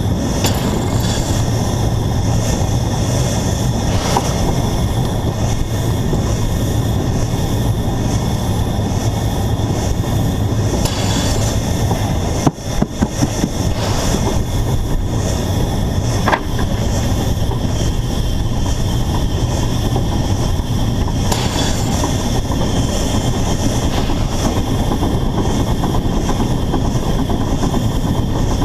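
Narrow-gauge steam locomotive running along the line, heard close up from the locomotive itself: a loud, steady rumble of running noise. A few sharp clicks and knocks come through, with a brief cluster a little under halfway through.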